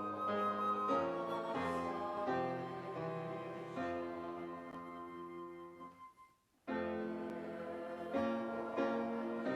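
Piano playing slow, sustained chords. Each chord fades after it is struck. The playing breaks off briefly about six seconds in, then picks up again.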